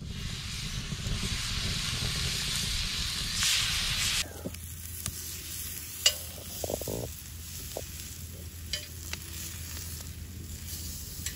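Bacon sizzling loudly as it is laid into a hot cast-iron skillet; about four seconds in the sizzle drops abruptly to the quieter sizzle of a seasoned steak searing in the pan. Metal tongs clink against the skillet a few times, sharpest about six seconds in.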